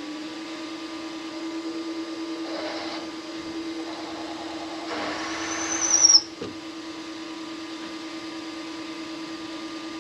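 Precision Matthews PM-25MV benchtop mill's spindle running steadily while a chamfer is cut into a drilled hole in aluminum. There are two short cutting passes, and the second rises to a brief squeal that cuts off about six seconds in.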